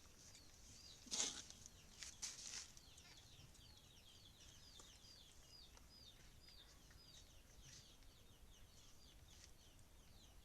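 Faint, high bird peeping, like chicks, repeating at about two short falling chirps a second. There is a brief rustle about a second in and another around two seconds in.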